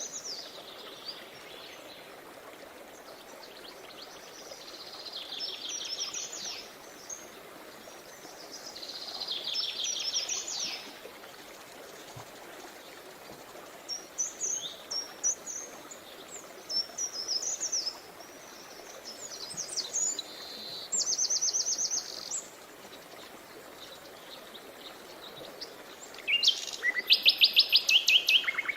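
Songbirds singing in short phrases of fast trills and chirps every few seconds, the loudest trill near the end, over a steady low rush of flowing river water.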